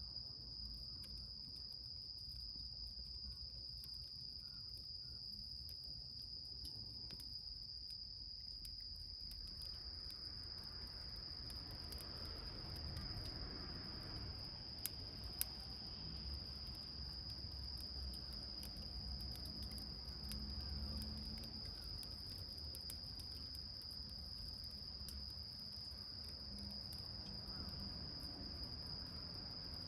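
Crickets trilling without a break at one high pitch, over a small wood fire burning in a tin can with faint crackles and two sharper pops about halfway through. A low rumble swells in the middle and fades again.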